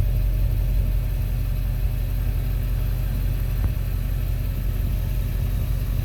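Steady low engine rumble with a fine even pulsing, heard from inside a pickup truck's cab.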